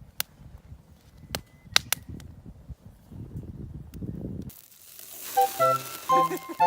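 Low rustling with a few sharp cracks, which cut off about four and a half seconds in. A hiss then swells, and chiming, music-box-style music begins near the end.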